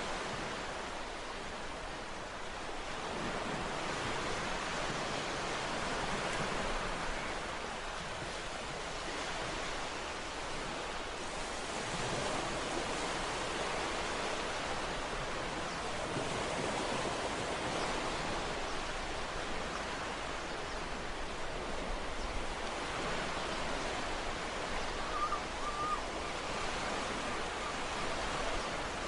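Ocean waves washing onto a shore, a steady hiss of surf that swells and eases every few seconds.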